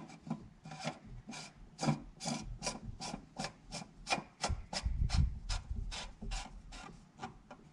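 Oil filter housing cap being screwed down and tightened, its threads rasping in short repeated strokes about two to three times a second.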